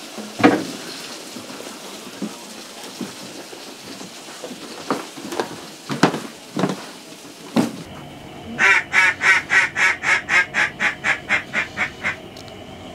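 Duck quacking: a few scattered single quacks, then a rapid run of about fourteen quacks at roughly four a second, slowly fading toward the end.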